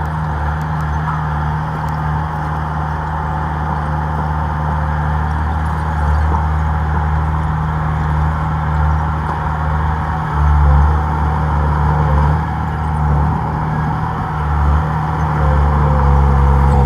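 Komatsu D31P crawler bulldozer's diesel engine running steadily under work, with a brief swell in engine sound about ten seconds in.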